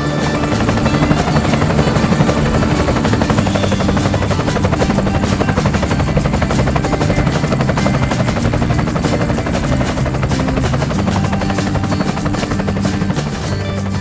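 Helicopter rotor sound effect, a rapid steady chopping, laid over background music.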